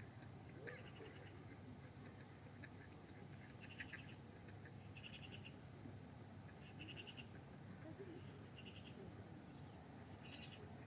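Faint outdoor ambience in a forest: a short chirp repeats about every one and a half to two seconds over a low, even background rumble.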